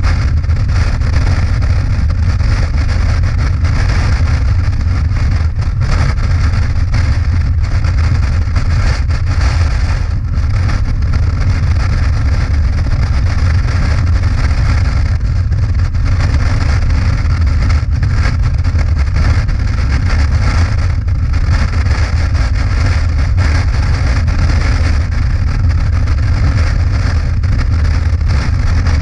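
Motorcycle engine running at a steady cruising speed, with wind rushing over the bike, heard from on board while riding.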